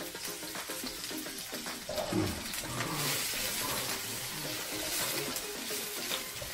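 Sliced onions sizzling in hot oil in a wok while a spatula stirs and scrapes them around the pan. The sizzle gets louder about three seconds in.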